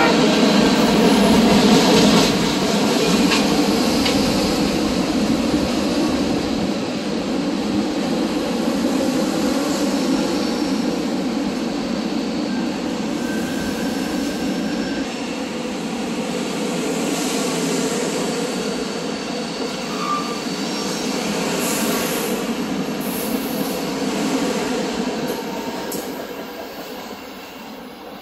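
Trains rolling past: a CSX freight of tank cars on the far track and SEPTA stainless-steel commuter cars on the near track, a steady rumble of steel wheels on rail with brief faint wheel squeal. The noise fades away near the end as the trains clear.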